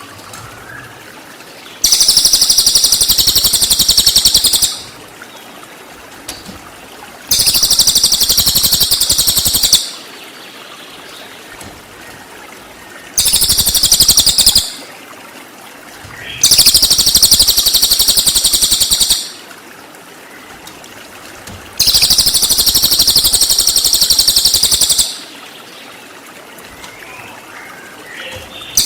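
Cililin song: five bursts of very rapid, high-pitched trilled notes ('tembakan' phrases), each lasting one and a half to three seconds, with a steady trickle of running water heard in the gaps between them.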